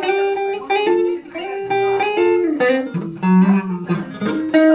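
Electric guitar, a Telecaster played through a Roland JC-120 amp, playing a blues line of short picked notes.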